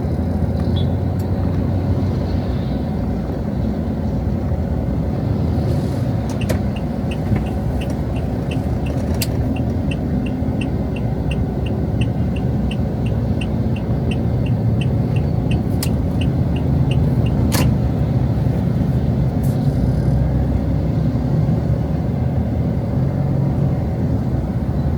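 Steady rumble of passing street traffic. For about ten seconds in the middle, a short high tick repeats about twice a second.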